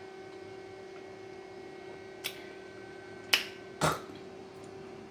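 Three short, sharp clicks over a steady electrical hum; the second and third, about half a second apart, are the loudest.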